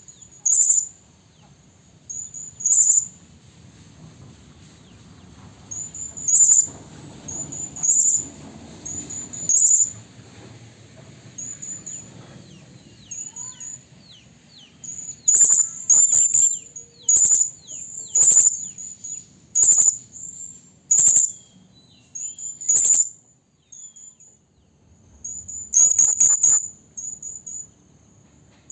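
Serindit (hanging parrot) calling: short, very high, sharp notes repeated irregularly, often in quick pairs or clusters, about one to two a second.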